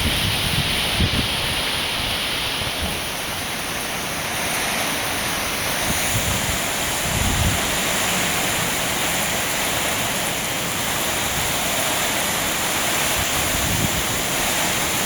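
Heavy rain pouring steadily in a summer storm, with a few low wind gusts buffeting the microphone.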